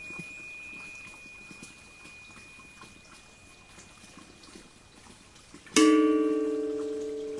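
A struck metal bell rings out and fades, leaving faint small ticks. About six seconds in it is struck again, sharply, and rings with several steady tones that slowly die away.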